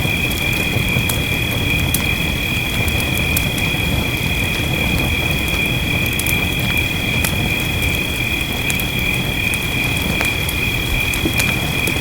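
Wood fire crackling, with sharp pops scattered irregularly, over a steady low rumble and the hiss of steady rain. A steady high-pitched tone sits behind it.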